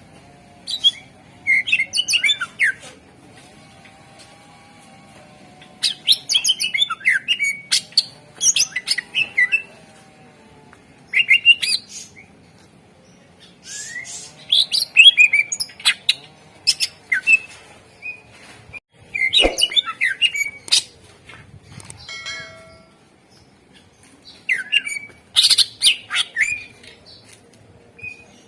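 Green leafbird (cucak ijo) singing: loud phrases of rapid, varied chirps and whistles, each a second or two long, broken by short pauses.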